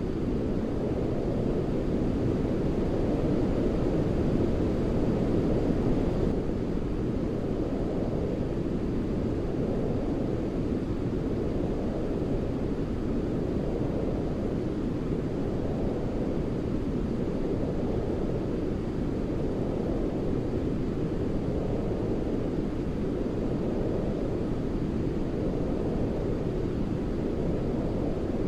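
Continuous deep white-noise hiss for baby sleep, its energy sitting mostly low like brown noise, swelling and ebbing gently about every two seconds after the first few seconds.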